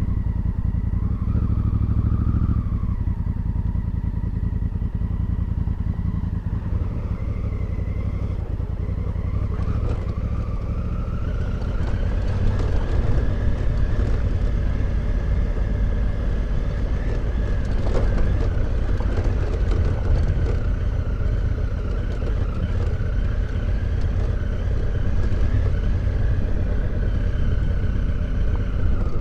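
Motorcycle engine running under way, a steady rumble whose note climbs about ten seconds in and then holds.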